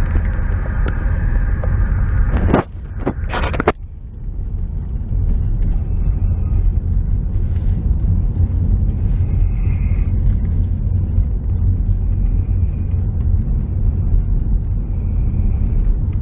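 Steady low rumble of a car on the move, with a brief break and a few knocks about three seconds in.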